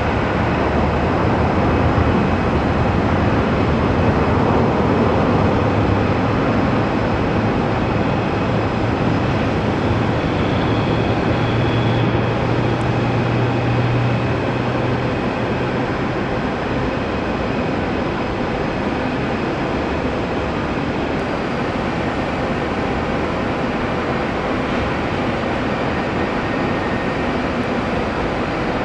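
Jet airliner engines, a loud steady rumble with a low hum that strengthens toward the middle and eases off a little after about sixteen seconds.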